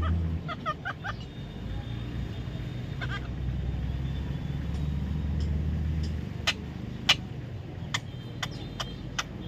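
Low, steady rumble of a passing or idling motor vehicle that fades out about six seconds in, with a few short bird chirps near the start. In the last few seconds it gives way to a series of sharp, short clicks.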